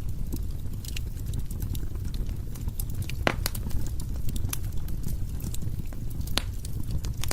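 Fire burning in a fireplace: a steady low rumble of flames with scattered sharp crackles and pops, two louder pops about three and six seconds in.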